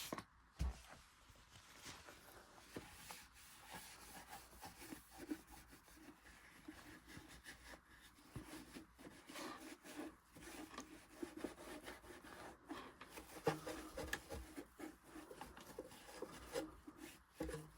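Faint rubbing and scratching of a cloth wiping down a sewing machine motor, with a few small knocks.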